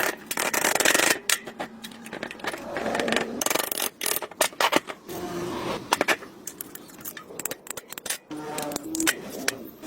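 Metal scraping and rubbing on a rusted engine part, broken by many sharp clicks and knocks of hand tools on metal.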